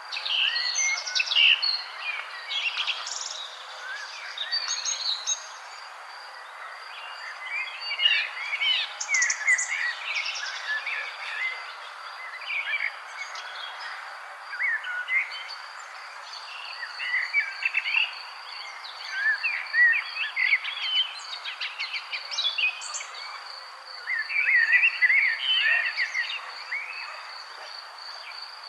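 Songbirds chirping and twittering in irregular clusters of short, quick notes, over a steady high pulsing insect trill and a soft background hiss.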